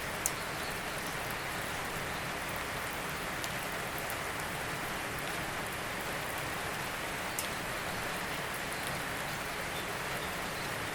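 Steady rain falling, an even hiss with scattered sharper drop ticks, one louder drip near the start and another past the middle.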